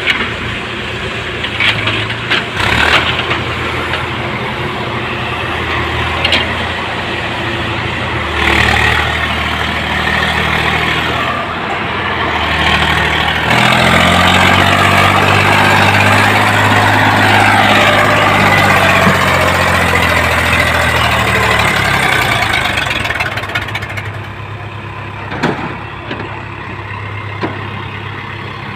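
Swaraj 855 tractor's three-cylinder diesel engine running. About halfway through it works harder, louder and with a wavering pitch, as under load, then eases back toward idle near the end. A few sharp knocks are heard along the way.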